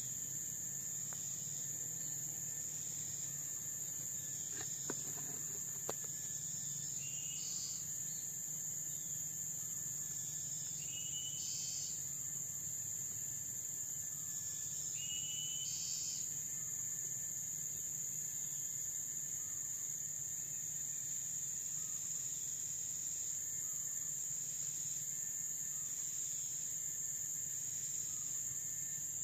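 Tropical forest insects, crickets and the like, keeping up a steady, high-pitched continuous drone. Three short whistled calls come through about a third of the way in, a few seconds apart.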